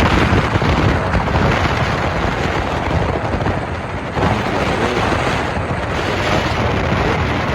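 Loud wind buffeting on the microphone, a dense rumbling rush with no distinct events.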